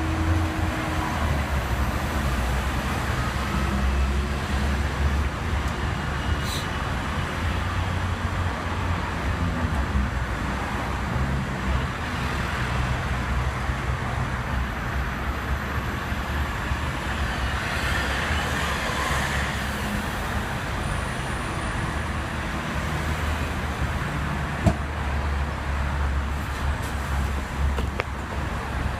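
Hong Kong double-decker tram running along its street track, a steady low rumble with road traffic around it, and a single sharp click a little before the end.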